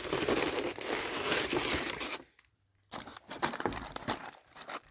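Food packaging crinkling and rustling as it is opened to get at the fries, dense for about two seconds, then after a short pause lighter crackling and clicks of handling.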